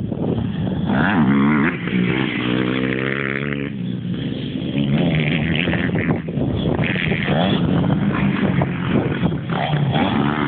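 Motocross bike engines revving up and easing off in turn, their pitch repeatedly rising and falling.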